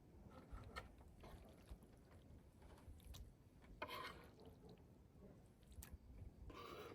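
Faint handling noises: scattered soft clicks, with a short rustle or scrape about four seconds in and another near the end.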